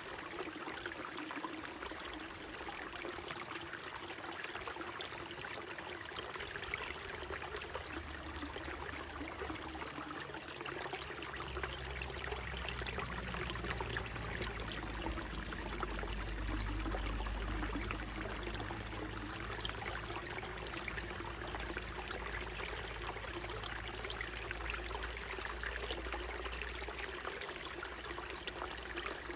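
Small mountain stream trickling and splashing over rocks, a steady rush of water. A low rumble swells in under it after several seconds, is strongest around the middle and fades out near the end.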